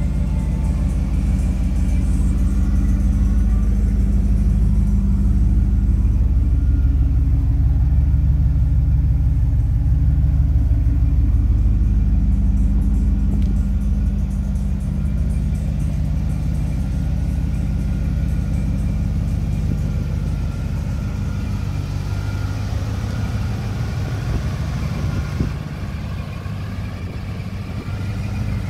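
Engine of a Pontiac Firebird-based KITT replica idling steadily, with an even low pulsing.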